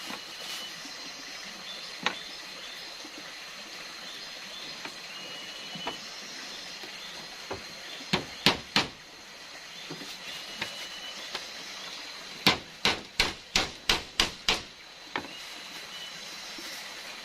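Sharp knocks: a few single ones, three close together about eight seconds in, then a quick run of about seven near the end, over a steady high-pitched background hum.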